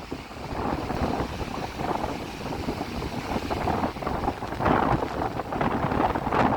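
Strong wind buffeting the microphone in a low rumble over the rush of surf, swelling and easing in gusts.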